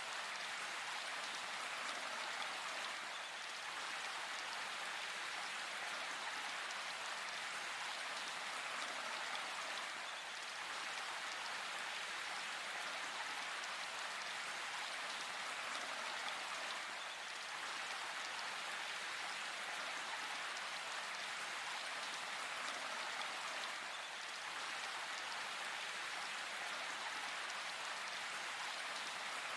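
Steady rain falling in a forest, an even, unbroken hiss of drops that neither builds nor eases.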